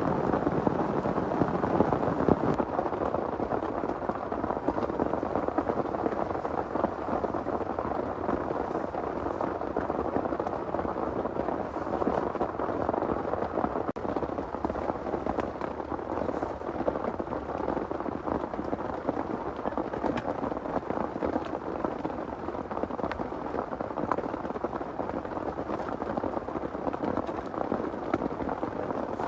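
Heavy rain pouring steadily, a dense patter of drops, a little louder in the first couple of seconds.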